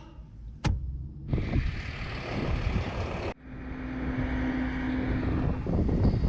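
Motor vehicle running with a rumble, in short clips that start and cut off abruptly, with a sharp click just before the first and a steady hum for a couple of seconds in the second.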